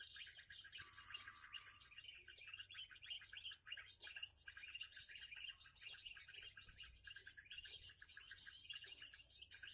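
Small birds chirping and trilling rapidly and without a break, many short calls overlapping in a dense high chorus.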